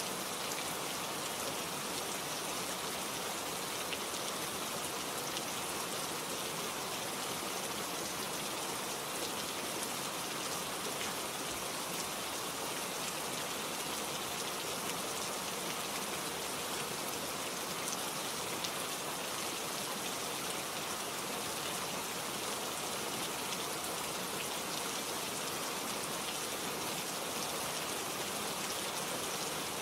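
Steady rainfall with countless fine drops pattering on leaves and surfaces.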